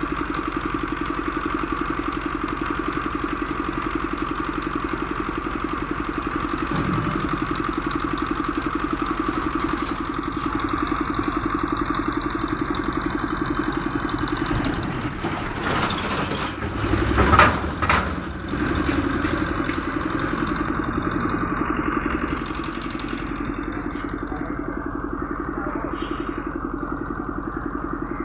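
An engine idling steadily with an even pulsing hum. A brief louder rush of noise with a low rumble swells and fades about two-thirds of the way through.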